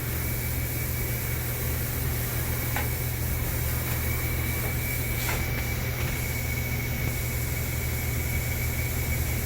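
Steady low hum of an idling Miyano BNE-64SY2 CNC lathe while its lower turret travels along the Z-axis; the ball-screw drive itself is almost silent. A faint high steady whine comes in about three seconds in, with a couple of faint clicks.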